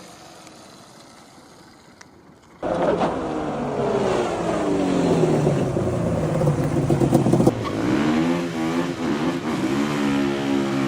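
Supermoto motorcycle engine, cutting in abruptly after a quieter start, its pitch falling steadily for several seconds as it comes off the throttle. After a sudden change it revs up and down repeatedly.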